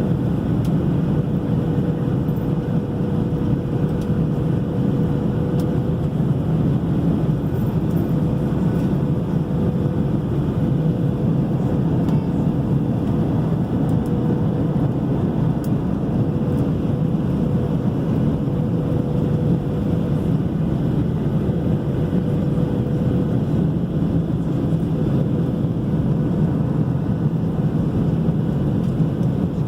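Steady drone of an airliner cabin in flight: constant low engine and airflow noise with a faint, steady hum over it.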